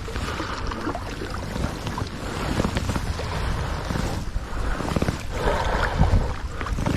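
Sea kayak on open salt water: water washing and splashing around the hull and paddle, with wind rumbling on the microphone.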